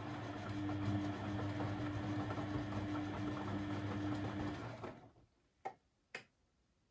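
Beko WMB 71643 PTE washing machine's brushed motor turning the drum with a steady whir, stopping about five seconds in, followed by two sharp clicks about half a second apart.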